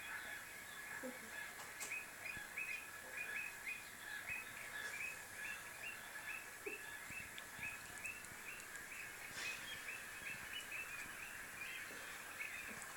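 Birds calling in a rapid series of short, high, evenly repeated calls, about two to three a second, over a steady background hiss.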